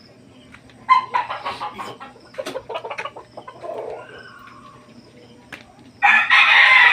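Chickens clucking in short bursts, then a rooster crowing loudly near the end.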